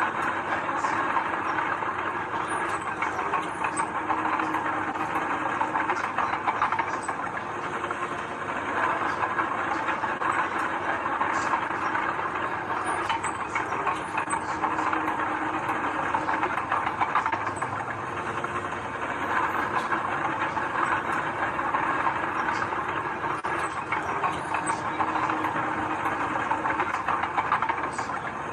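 Heavy diesel earthmoving machinery running steadily, with scattered metallic clicks and clanks over the engine noise.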